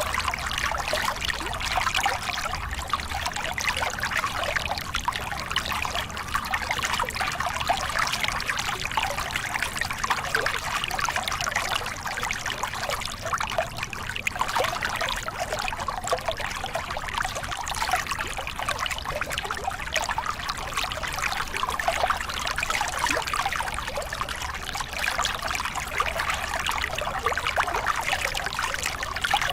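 Small river cascade: water pouring and splashing over rocks in a steady, even rush with a fine bubbling texture.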